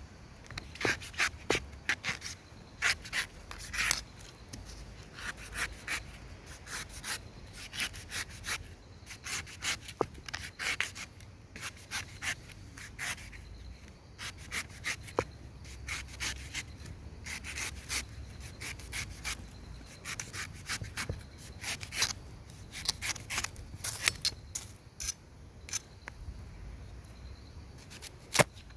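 A knife cutting into the husk of a king coconut: a long run of short, sharp slicing and chopping strokes, coming in quick irregular bursts.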